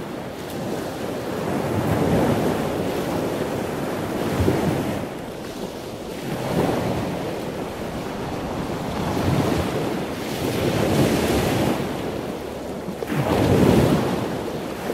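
Ocean surf, a rushing wash of waves that swells and ebbs every few seconds.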